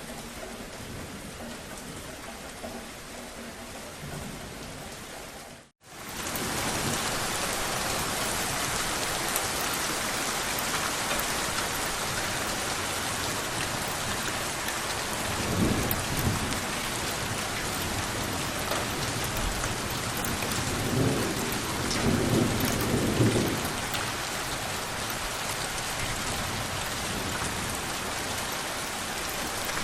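Steady rain falling, with an abrupt cut to silence about six seconds in, after which the rain comes back louder. Low rumbles of thunder come in the middle, once briefly and then again for a couple of seconds.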